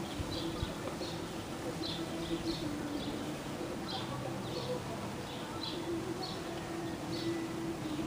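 Birds chirping outdoors: short high chirps repeated every half second to a second, often in pairs, over a low steady hum.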